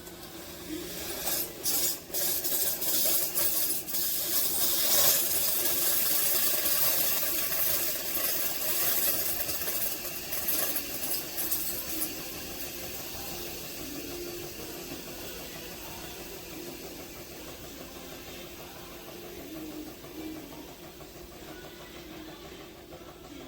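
Amazon Basics single-serve pod coffee maker hissing and sputtering as it forces hot water and steam through. After about twelve seconds it settles to a quieter, steady hiss.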